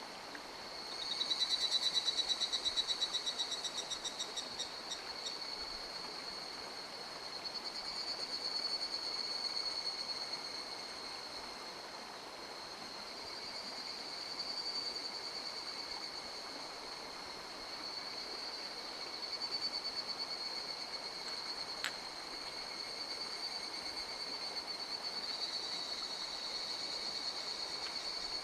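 Frogs calling with high, rapid trills over the steady rush of a mountain stream. The loudest trill comes about a second in and runs for a few seconds, and fainter calls swell and fade after it. There is a single sharp click near the end.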